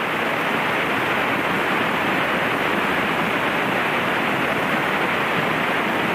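Steady rushing cabin noise of a Mooney single-engine light aircraft in flight on approach, engine and slipstream blending into an even hiss with no distinct tones.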